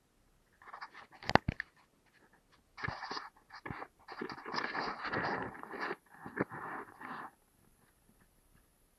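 Irregular bursts of scraping and crunching with a few sharp clicks, the loudest click about a second in, dying away near the end.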